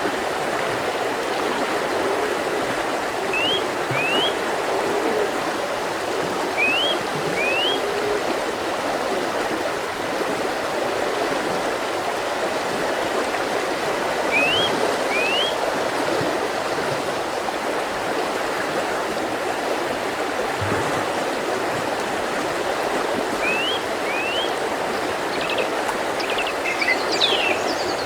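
Mountain river flowing steadily. A bird gives pairs of short rising chirps every few seconds, with a brief jumble of calls near the end.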